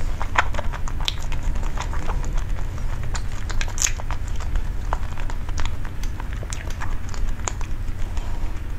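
Close-miked chewing of a soft green cake: scattered small wet mouth clicks and smacks, about a few a second, over a steady low hum.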